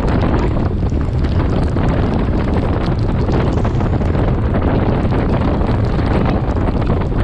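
Wind rushing and rumbling over the microphone of a camera riding on a moving bicycle, a loud, steady roar of noise with scattered faint ticks.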